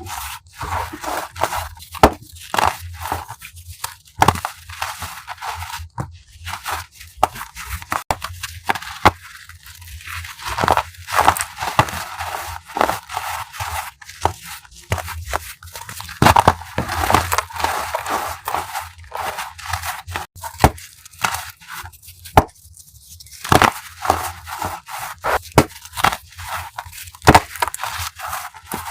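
Blocks of chalk, some of them homemade gym chalk, crushed by hand: dense, irregular crunching and crackling, with a sharp louder snap every few seconds.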